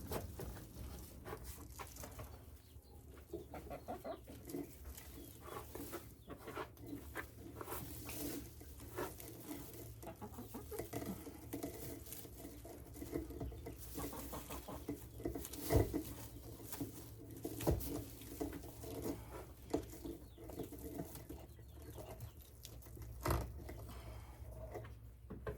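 Chickens clucking on and off, with a few sharp knocks in the second half.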